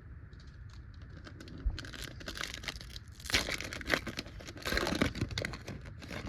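A Topps trading-card pack wrapper being torn open and crinkled, in three rustling bursts from about two seconds in, the loudest near the middle.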